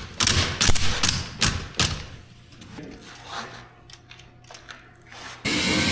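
Repeated sharp knocks, about six in the first two seconds, then fainter clattering; a steady rushing noise starts near the end.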